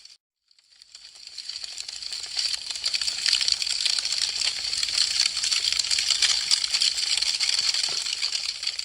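Wood fire crackling: a dense stream of fine pops and snaps. It drops out briefly at the start, then fades back in over a couple of seconds and holds loud until it thins a little near the end.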